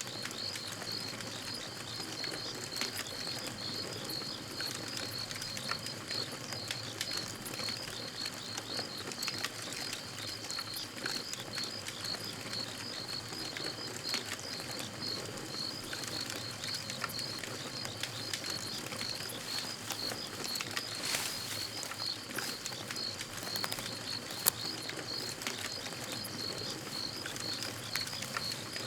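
Campfire crackling with scattered small pops and one sharp pop about 24 seconds in, over a steady high chirping that repeats evenly throughout.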